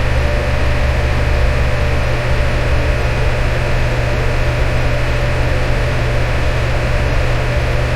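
Electric fan running steadily: an even rushing noise over a deep hum, with a faint steady tone above it.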